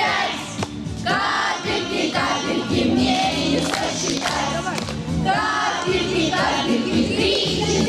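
A group of children singing a children's song together over a recorded backing track.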